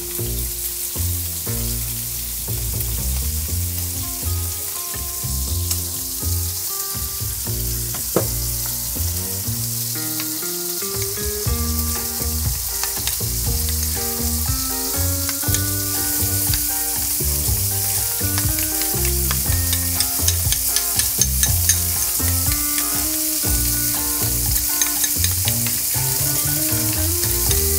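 Flank steak searing in a pan and sliced onions and peppers sautéing in olive oil: a steady sizzle. In the second half a spoon taps and scrapes against a small glass bowl as ricotta is stirred. Background music plays underneath.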